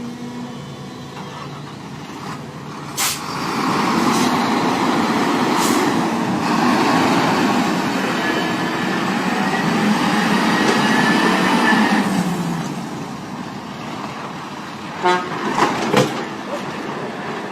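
A vehicle horn held for about nine seconds over road traffic noise, its pitch dropping slightly as it ends. A few sharp knocks come before and after it.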